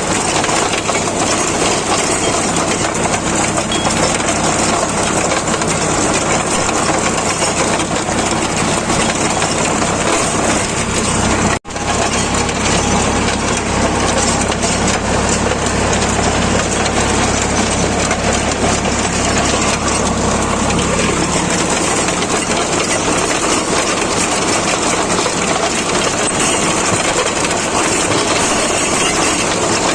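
Sonalika 745 DI tractor's diesel engine running steadily. The sound breaks off for an instant about twelve seconds in, and for the next nine seconds or so a deeper low hum is stronger.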